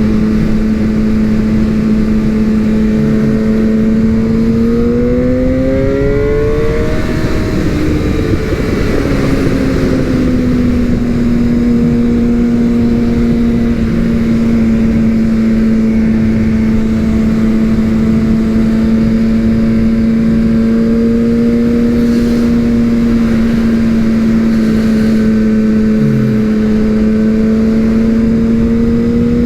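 Suzuki GSX-R750 sport bike's inline-four engine pulling steadily under way with wind rushing past. Its pitch rises about five seconds in, breaks up briefly as the rider shifts, then settles lower and climbs gradually again.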